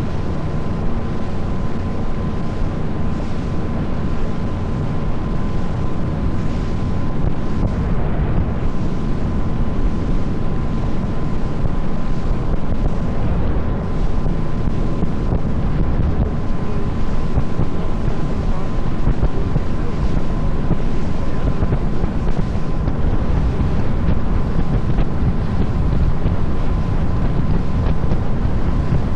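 Tour boat's engine running steadily under way, with a thin steady whine in its sound, mixed with wind rushing over the microphone and water noise against the hull.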